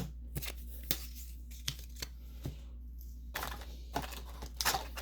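Pokémon trading cards and a foil booster-pack wrapper being handled: scattered soft clicks and snaps of cards sliding past one another, with a couple of short paper-and-foil rustles about three and a half and four and a half seconds in.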